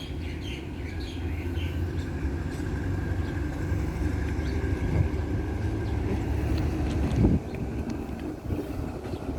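Alsthom diesel-electric locomotive running with a steady low engine rumble while shunting, with a brief low thump about seven seconds in.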